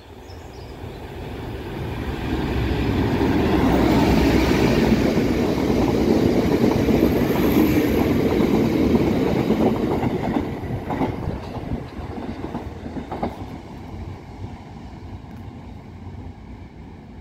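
Class 56 diesel freight locomotive with its Ruston-Paxman V16 engine, hauling a train of oil tank wagons past at speed. The engine and wheel noise build as it approaches, are loudest for about six seconds as the locomotive and tankers go by, then fade as the wagons roll past, with a few knocks from the wheels near the end.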